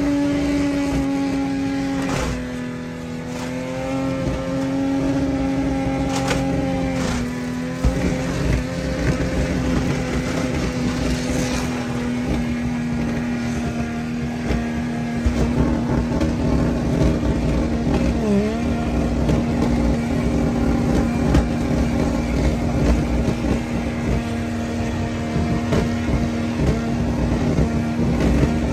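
Turbocharged, modified Ford Barra straight-six in a Ford Territory held at high, steady revs during a burnout, with slight dips in pitch early on. From about eight seconds in it gets rougher, with crackling and spiky peaks over the engine note.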